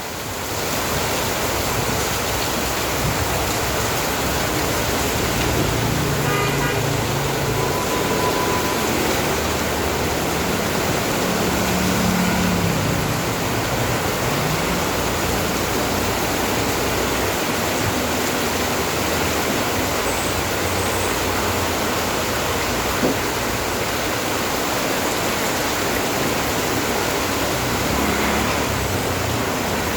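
Steady rain falling, with motor vehicles passing through it and a short horn toot about six seconds in.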